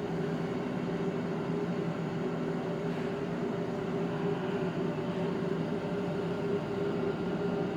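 Steady electrical hum of a Dohiemon frozen-food vending machine's refrigeration unit running, an even drone with a few fixed tones.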